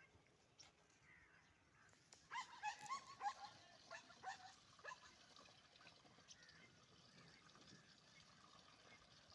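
A dog yipping and whimpering, a quick run of short high yelps between about two and five seconds in, over faint outdoor background.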